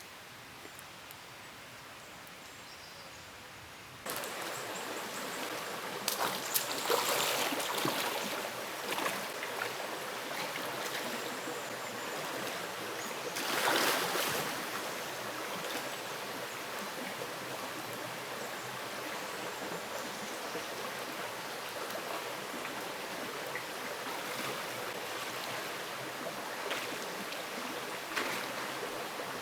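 Steady rush of a flowing mountain stream, cutting in abruptly about four seconds in after a quieter stretch of outdoor ambience, with a few brief louder swells.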